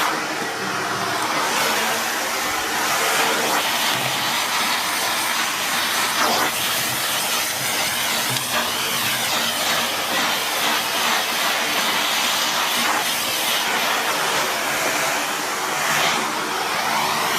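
Miele S8730 (C3 Complete) cylinder vacuum cleaner running steadily on low power with its dusting brush, the suction giving a continuous hiss.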